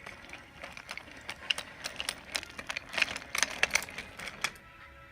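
Wooden toy railway pieces clicking and rattling in quick, irregular clicks, busiest about three to four and a half seconds in. Faint steady music tones come in near the end.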